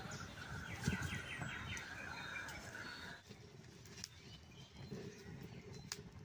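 A bird calling in a quick run of repeated chirping notes for about three seconds, then falling silent. A single knock about a second in, and a few faint clicks later, come from the wood fire and stove being tended.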